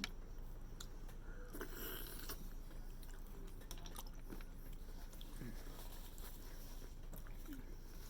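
A person chewing and biting food close to the microphone, with scattered small clicks and mouth smacks.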